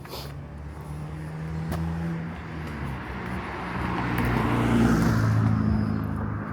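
A car passing by on the street, its engine hum and tyre noise swelling to a peak about five seconds in and then fading.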